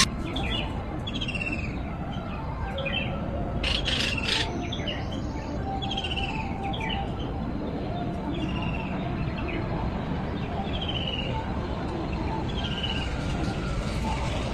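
A bird chirping: short, falling chirps repeated about once a second or two, over a steady low background noise. A couple of brief knocks sound about four seconds in.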